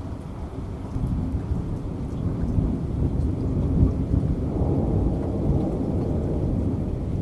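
Heavy rain with a low, rolling rumble of thunder that swells about a second in and again around the middle.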